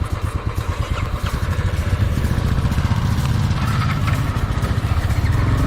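Motorcycle engine running with a fast, steady firing pulse that grows a little louder after about two seconds.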